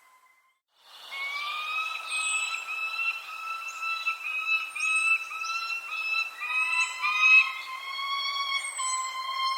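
Birds calling: after a moment of near silence, a run of repeated whistled notes, about two a second, starts suddenly about a second in, with short high down-slurred chirps over it.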